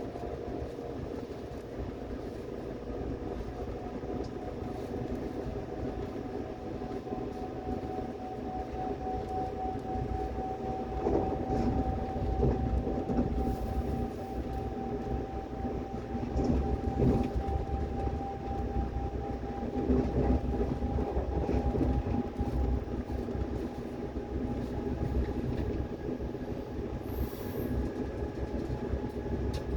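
Subway train running on the rails: a low rumble with wheel clatter under a steady motor whine that creeps slowly up in pitch as the train gathers speed. The rumble grows rougher and louder through the middle.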